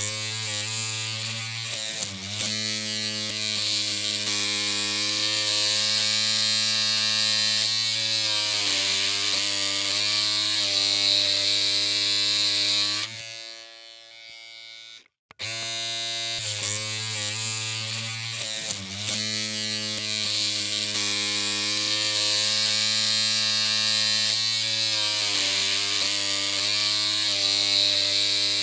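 Electric hair clippers running with a steady buzzing hum whose pitch wavers slightly a couple of times. About halfway through the hum stops for roughly two seconds, then the clippers start again.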